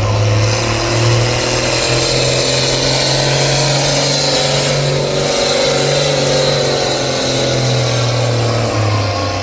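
Competition pulling tractor's engine wound up at full power, pulling the sled down the track: a loud, steady engine note that climbs slightly in pitch early on and drops back near the end.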